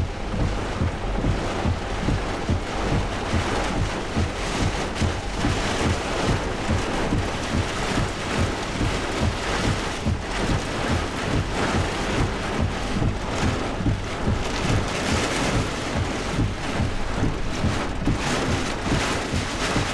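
Heavy wind-driven rain pelting a truck from a severe wind storm, with gusts buffeting the truck and the microphone in a steady, pulsing rush.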